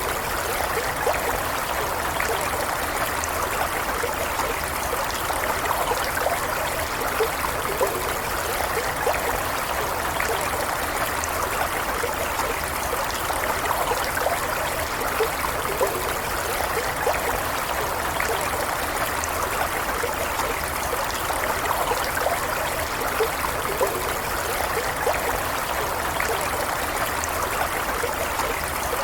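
A small stream of running water flowing steadily, with light trickling and burbling. The water sound holds at an even level.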